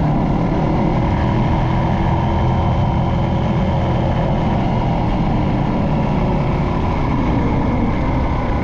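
Motorcycle running steadily while being ridden, with a constant low rumble of engine and road noise.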